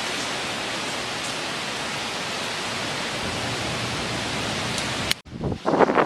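Steady rushing noise of tropical-storm wind and rain. About five seconds in it cuts off abruptly, then gusts of wind buffet the microphone, louder and uneven.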